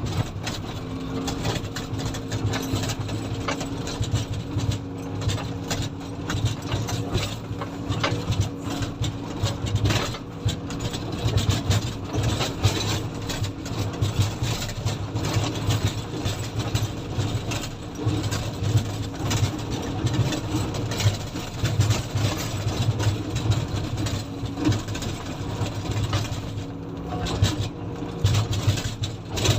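Komatsu motor grader's diesel engine running steadily as the machine works, a low drone with frequent rattles and knocks and a faint steady whine over it for much of the time.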